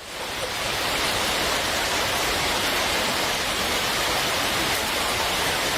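Storm wind and rain: a steady, even rush of noise that fades in over the first half-second and cuts off suddenly at the end.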